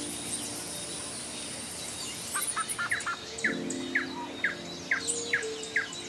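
Wild birds singing: a run of short, falling chirps, about two a second, starts a little past the middle, with higher twittering throughout.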